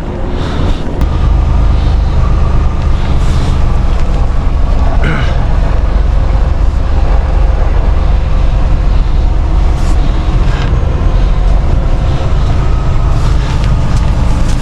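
Semi truck's diesel engine running steadily, its low drone stepping up a little about a second in.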